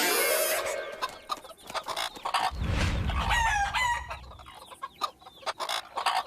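Chickens clucking and a rooster crowing, with a low rumble about two and a half seconds in.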